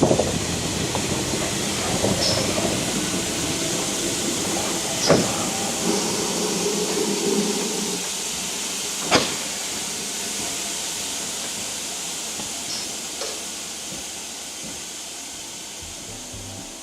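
Steam locomotive letting off steam in a steady hiss, with two sharp clanks about five and nine seconds in; the hiss slowly dies away.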